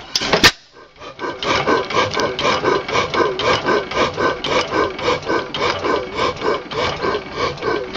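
1918 Waterloo Boy 14 hp hit-and-miss gas engine running without a muffler, a steady rhythmic clatter of about three beats a second. A sharp loud noise about half a second in is followed by a brief dip before the running sound resumes.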